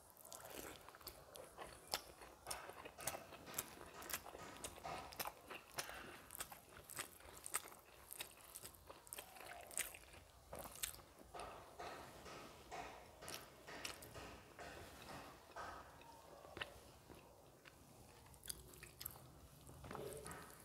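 Close-miked chewing of a mouthful of rice and curry eaten by hand, with many sharp wet mouth clicks.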